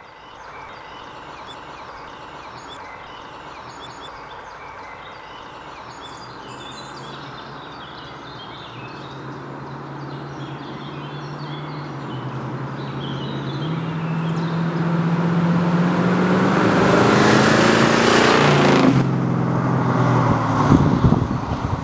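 1972 Dodge Charger's 400 Magnum V8 with factory dual exhaust driving by: heard faintly at first, it grows steadily louder as the car approaches, then drops in pitch and falls away as it passes near the end.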